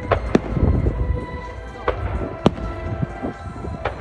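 Fireworks bursting with sharp bangs at uneven intervals, about five in four seconds, over a low rumble, with show music playing underneath.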